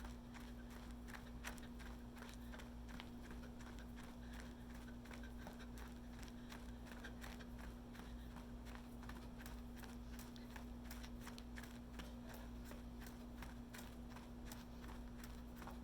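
Footsteps of a person running, a faint quick and even rhythm of light footfalls, over a steady low hum.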